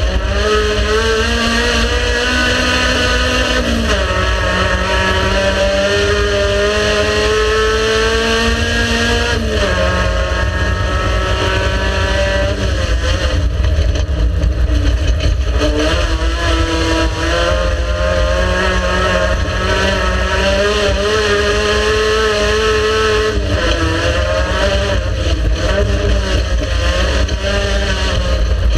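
Racing car engine running hard with no break, its pitch changing at several gear changes, over a steady heavy low rumble.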